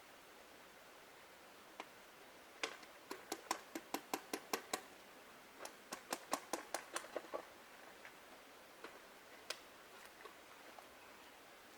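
Small hammer driving a nail into a dead tree trunk: two runs of quick taps, about five a second, a few seconds apart, then a couple of single knocks.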